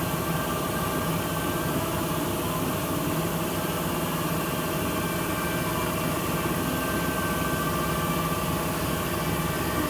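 A motor running steadily, with a constant low hum and several steady whining tones over it.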